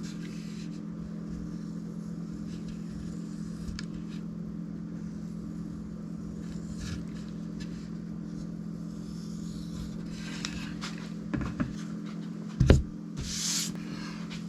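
A steady low hum, with one sharp knock near the end followed by a short hiss.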